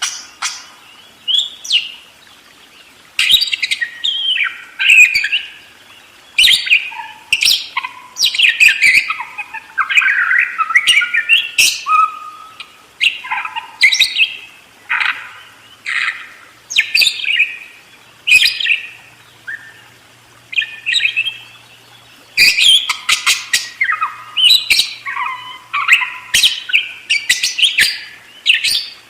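Budgerigar (parakeet) chattering and warbling in long runs of quick chirps, squawks and whistled notes with sharp clicks mixed in, broken by short pauses.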